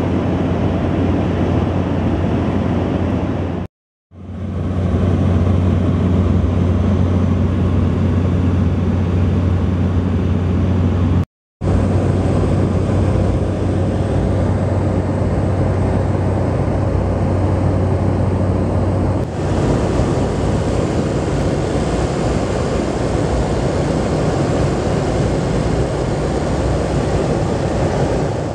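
Tour boat's engine running with a steady low hum under rushing wind and water noise. The hum drops away about two-thirds through, leaving a broader rushing noise. It cuts out abruptly twice.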